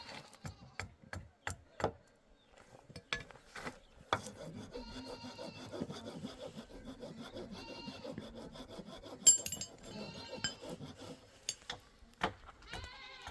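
A string of sharp knocks, then about seven seconds of steady scraping or rasping. Sheep bleat now and then.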